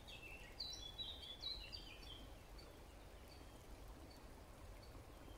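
Faint woodland birdsong: a bird sings a quick run of high chirping notes in the first two seconds, then only scattered faint chirps over a low steady background rumble.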